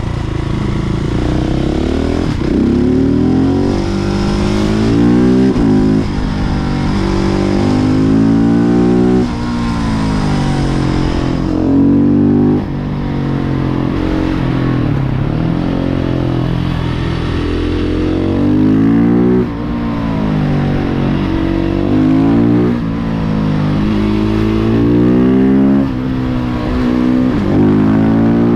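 Husqvarna 701 Supermoto's single-cylinder engine through a Remus Blackhawk exhaust, pulling hard up through the gears again and again. The pitch rises and drops back at each shift, and the throttle closes briefly a few times.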